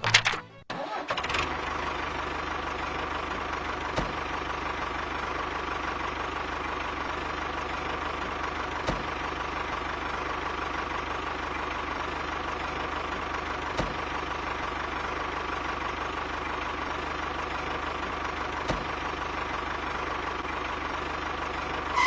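A motor running steadily: a low hum with a steady higher whine, starting suddenly about a second in, with a faint click about every five seconds.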